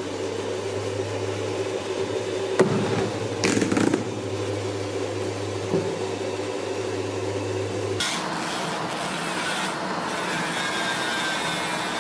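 Desktop manicure vacuum's fan motor running with a steady hum, with a few sharp knocks a few seconds in. About eight seconds in the hum stops and gives way to a noisier rushing hiss with faint whistling.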